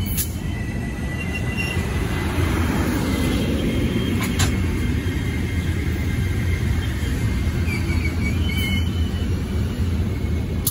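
Amtrak bilevel passenger cars rolling past at low speed: a steady rumble of steel wheels on the rails, with faint high wheel squeals. The sound cuts off suddenly at the end.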